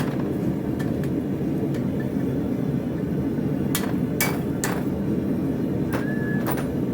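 Hammer blows on steel at an anvil: three strikes about half a second apart a little past the middle, with a few lighter taps and a brief ring, over a steady low rumble.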